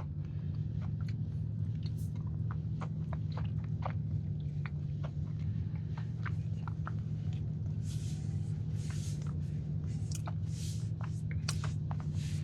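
Close-miked chewing of a soft churro cookie with a cinnamon-sugar crust: many small wet mouth clicks and smacks, a little denser about two thirds of the way through, over a steady low hum.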